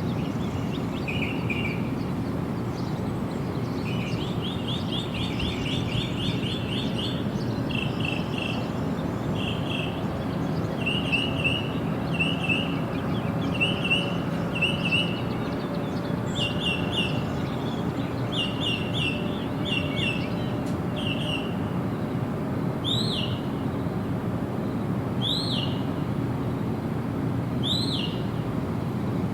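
Birds calling in quick runs of short chirps, later changing to single sweeping calls repeated every couple of seconds, over a steady low background hiss.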